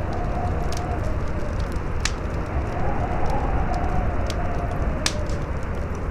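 Campfire crackling, with sharp pops (the loudest about one, two and five seconds in), over a steady howling wind whose hollow tone swells and falls, with a deep rumble beneath.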